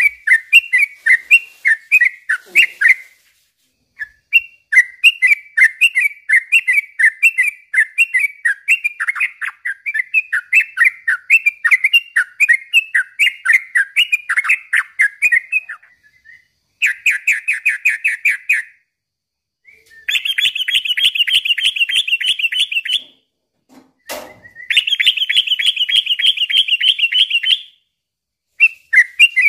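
Yellow-vented bulbul (trucukan) singing a long, fast run of quick repeated chirpy phrases. The run breaks into a rapid trill after about 17 seconds, then gives way to two longer, higher buzzy rattles near the end, with a single click between them.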